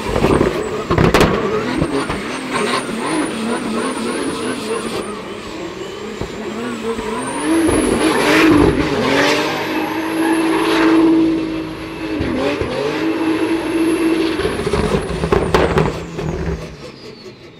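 Turbodiesel drift car running hard, its engine note climbing and falling as it is revved, with a few sudden loud bursts.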